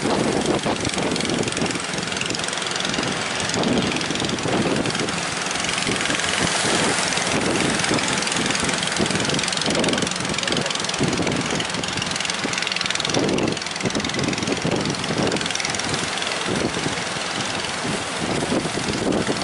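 A fishing boat's engine running steadily at sea, with gusty wind buffeting the microphone.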